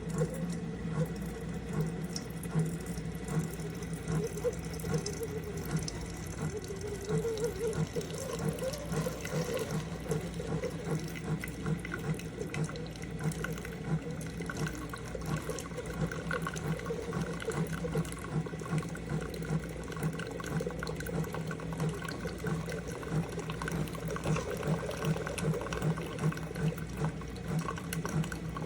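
SIFENE single-serve pod coffee maker brewing: its pump pulses steadily as water runs through.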